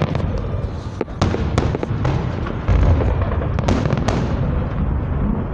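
Fireworks display: a continuous rumble of aerial shell bursts with many sharp cracks over it, loudest about halfway through.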